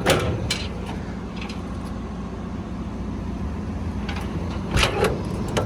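7.6-litre turbo diesel engine of a Hino 338 truck idling steadily, with a few sharp knocks near the start and again near the end.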